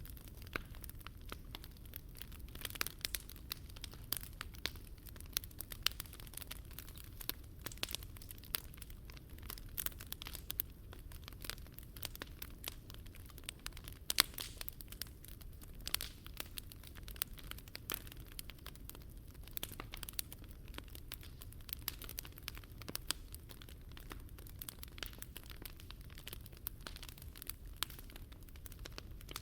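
Wood fire burning, with dense, irregular crackling and popping over a steady low rumble, and one sharper pop about fourteen seconds in.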